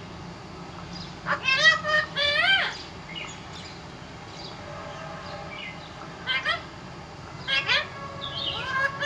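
Parrot vocalising in short, high calls whose pitch rises and falls: a cluster of three or four calls about a second in, then shorter calls after the middle and near the end.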